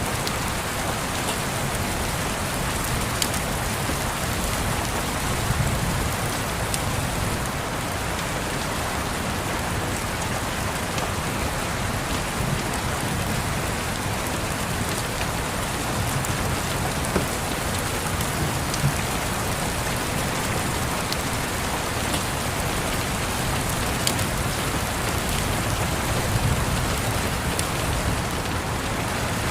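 Steady rain pattering, with scattered sharp crackles of a wood fire and a soft low rumble that swells now and then.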